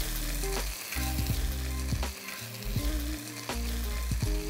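Sliced onions with ginger and garlic paste sizzling in hot mustard oil and ghee, stirred with a metal spatula that scrapes and clicks against a brass pan several times. Low steady tones run underneath.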